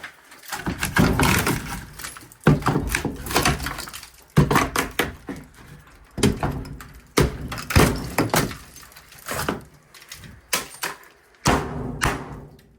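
Repeated heavy blows against wooden boards fastened to a furnace plenum: about a dozen bangs at irregular intervals of roughly a second, each with a short rattle after it. The wood stays put because a cabinet screw driven into the plenum holds it.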